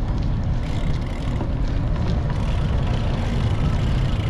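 Wind buffeting an action camera's microphone during a bicycle ride: a steady low rumble with no let-up.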